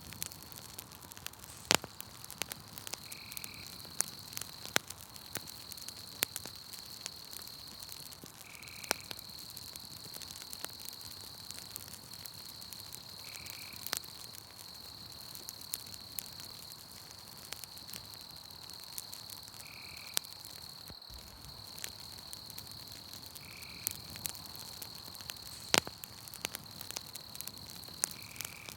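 Campfire crackling, with scattered sharp pops, a few of them much louder, over a steady high trill of night insects. A short chirping call recurs every few seconds.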